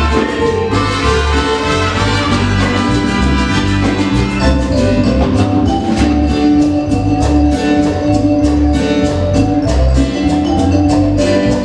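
Live Latin dance band playing an upbeat song, with brass over a steady percussion beat.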